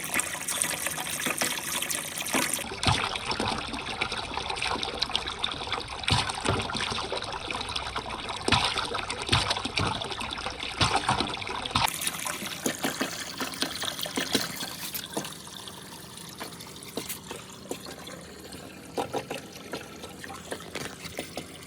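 Water trickling and splashing through a marble run course, with marbles clicking and knocking along the track. It gets quieter, with fewer clicks, about twelve seconds in.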